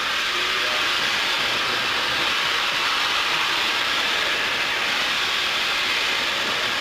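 Steam locomotive letting off steam: a steady hiss that holds at one level throughout.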